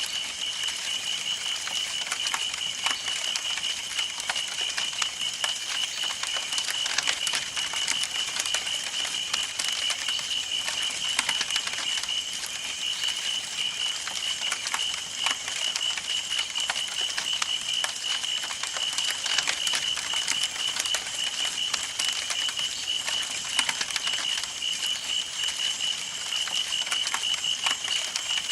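Campfire burning, wood crackling and popping in quick irregular snaps over a soft hiss, with a steady high pulsing trill behind it.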